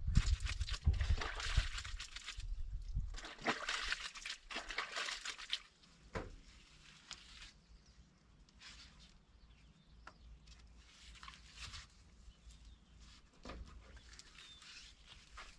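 Clothes being washed by hand in a basin: water sloshing and splashing, busiest in the first six seconds, then quieter, scattered splashes.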